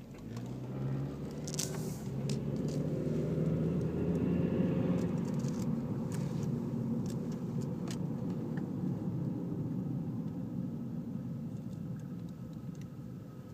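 Opel Astra H's Z18XER 1.8-litre four-cylinder petrol engine running; its note rises over the first few seconds, then holds steady and slowly fades. Several sharp clicks sound over it, the loudest about a second and a half in.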